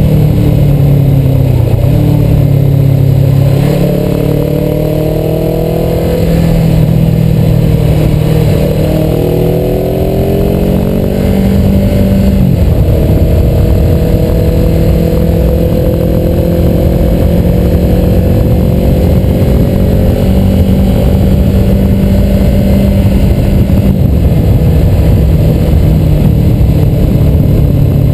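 Suzuki motorcycle engine running under way, with loud wind noise on the microphone. The engine pitch rises and falls several times in the first ten seconds or so, then holds steady.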